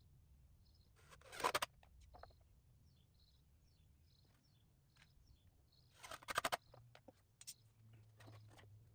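Two short bursts of power-tool noise, each about half a second long and loud against a quiet background, about five seconds apart. Faint high chirps sit in between.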